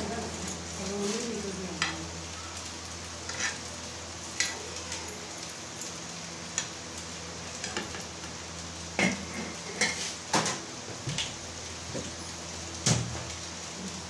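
French fries sizzling in a nonstick frying pan while tongs toss them, with scattered clicks and scrapes against the pan; a cluster of louder knocks comes from about nine to thirteen seconds in.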